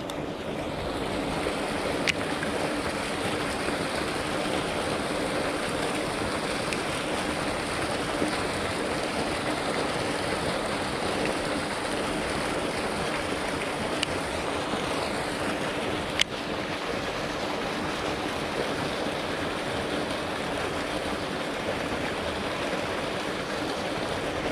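Steady rushing of flowing water, with a few faint clicks along the way.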